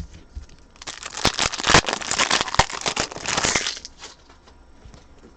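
Foil trading-card pack wrapper being torn open and crinkled, a loud crackling rustle starting about a second in and lasting about three seconds.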